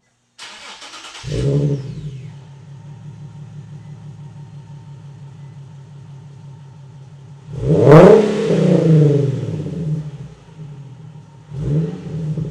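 Nissan 370Z's 3.7-litre V6 through a short non-resonated aftermarket exhaust, started up with a brief flare about a second in, then idling steadily. It is revved hard once about eight seconds in, settling back to idle, and blipped again near the end.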